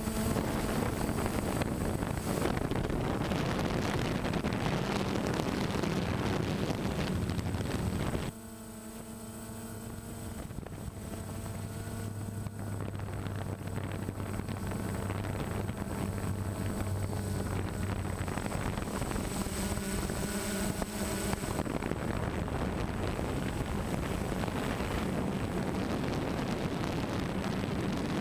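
A vehicle engine running steadily under wind noise on the microphone, with a sudden drop in level about eight seconds in before the same steady noise builds back.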